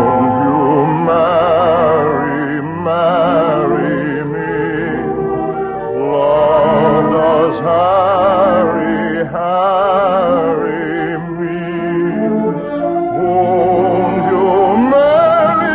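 Operatic singing with a wide vibrato and long held notes over an orchestra, in a narrow-band old radio recording.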